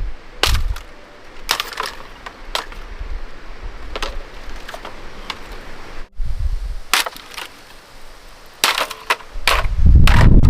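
Irregular sharp knocks and clicks, a dozen or so spread over several seconds, with wind buffeting the microphone near the end.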